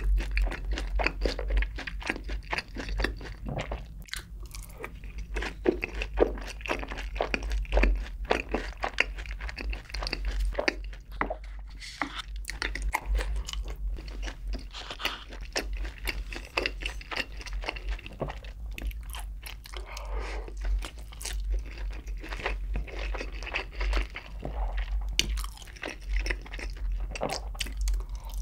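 Close-miked chewing and crunching of fried chicken coated in sweet seasoned sauce, with a continuous run of irregular crisp crackles and wet mouth sounds.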